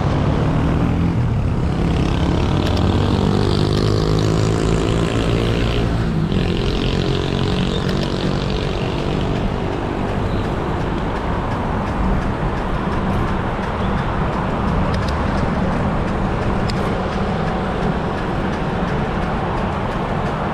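City street traffic. A nearby motor vehicle's engine hums and slowly drops in pitch over the first six seconds, then steady traffic and road rumble continue.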